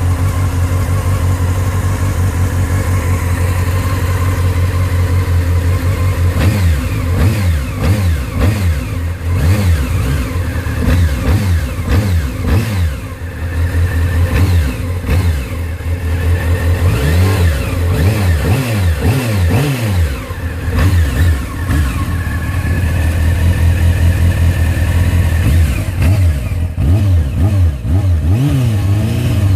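2002 Honda CBR600F4i's 599 cc inline-four engine idling steadily while warming up from a cold start. From about six seconds in it is revved again and again with quick throttle blips, the pitch rising and falling with each one.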